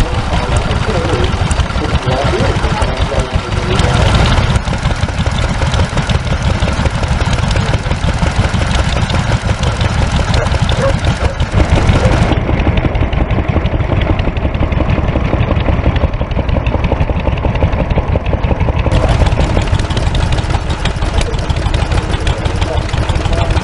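Vintage stationary engines running steadily, their firing strokes coming in a fast, even beat.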